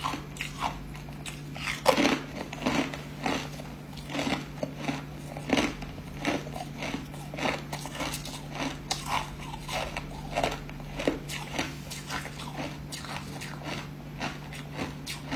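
Hard ice being bitten and chewed close to the microphone: a continuous run of sharp, irregular crunches, loudest about two seconds in, over a steady low hum.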